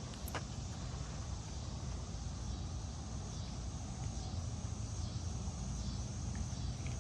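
Outdoor ambience: a steady low rumble with a faint high chirring of insects, and one brief click about a third of a second in.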